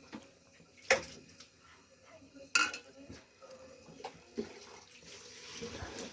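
Kitchen utensils clinking against pots and dishes, two sharp clinks about one and two and a half seconds in and a softer knock later, followed by a steady hiss near the end.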